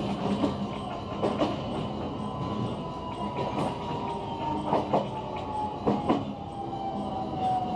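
JR West 125 series single-car electric train running, heard from inside the car: the wheels click over rail joints in pairs a few times. Under them a thin whine slowly falls in pitch as the train slows for a station stop.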